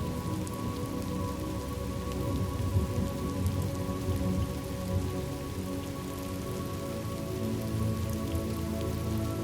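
Steady rain falling, with a soft sustained musical drone of held tones underneath.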